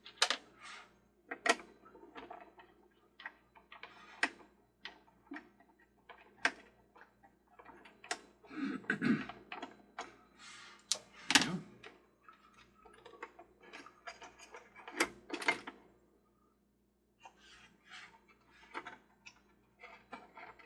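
Irregular clicks, taps and small rattles of a screwdriver and screws being worked out of the plastic hub of a Mr. Christmas Ferris wheel, with a couple of heavier handling knocks of the plastic parts partway through.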